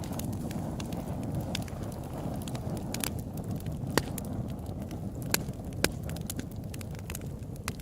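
Open-air campfire burning with a steady low rumble of flames and many sharp crackles and pops of burning wood, a few of them louder.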